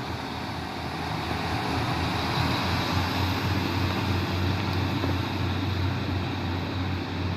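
Class 150 diesel multiple unit pulling away from the platform, its diesel engines running under power with a steady low rumble that swells a little partway through.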